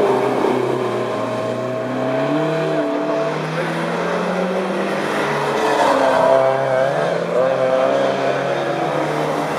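Engines of several classic racing cars running together, their pitch rising and falling as they accelerate and lift off.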